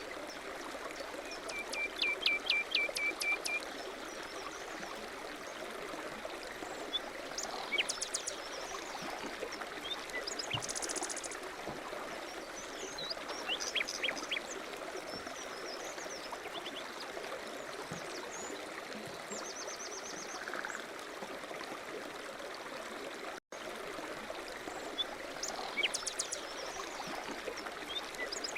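Running water with a steady rush, and small birds chirping over it in short calls and quick trills every few seconds.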